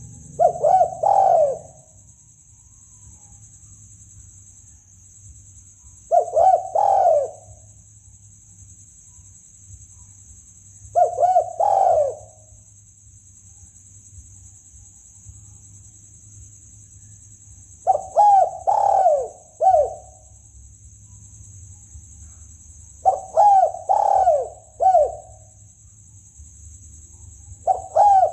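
Spotted dove cooing: six short phrases of two to four rolling coos each, repeated every five or six seconds, played as a lure call for hunting.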